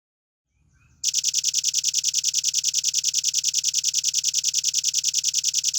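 Velvet-fronted nuthatch giving a long, fast, even trill of high notes, about ten a second, that starts about a second in and runs for close to five seconds.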